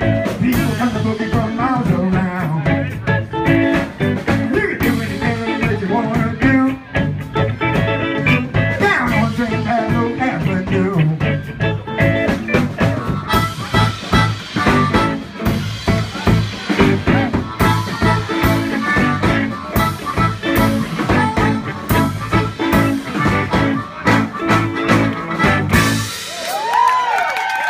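Live harmonica blues band playing a song with a steady beat, which stops near the end; whoops from the audience follow.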